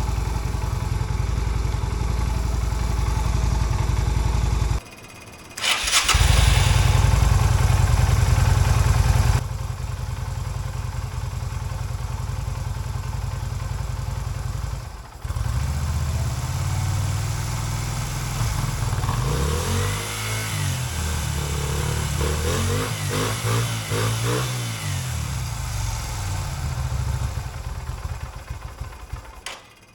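Yamaha V Star 250's V-twin engine running, now fed by an added fuel pump and manual petcock in place of its vacuum-operated fuel supply. The sound breaks off briefly twice, and in the second half the revs rise and fall several times with throttle blips before it dies away near the end.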